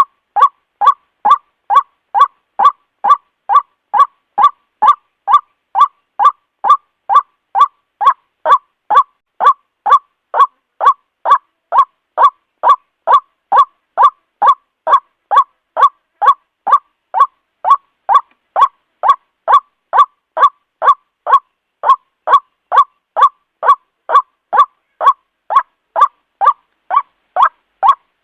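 White-breasted waterhen's loud, repeated kwak call, short notes evenly spaced at about two a second without a break: the ruak-ruak lure call used to draw waterhens to a trap.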